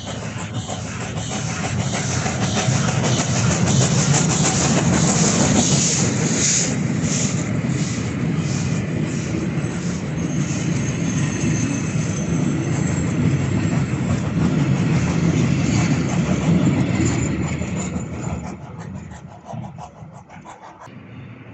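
A train passing, its wheels clicking over the rail joints. The sound builds, holds for about fifteen seconds with a faint high whine in the middle, and fades away near the end.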